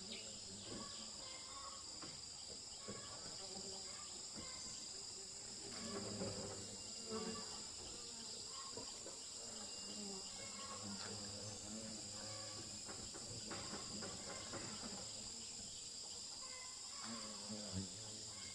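Steady high-pitched chorus of insects, crickets or cicadas, with scattered small knocks and rustles beneath it.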